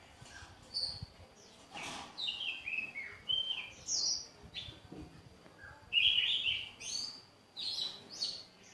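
Small caged songbirds chirping: a run of short notes stepping down in pitch, then a louder cluster of quick chirps about six seconds in.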